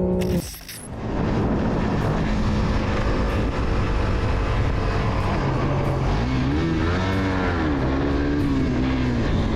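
Motorcycle on the road recorded from the bike, with a steady roar of wind and road noise. Its engine note rises and falls a few times about six to nine seconds in.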